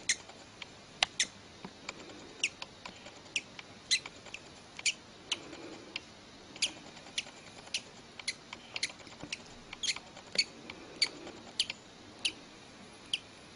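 Newly hatched baby bird peeping: short, sharp, high-pitched cheeps, about two a second at an irregular pace.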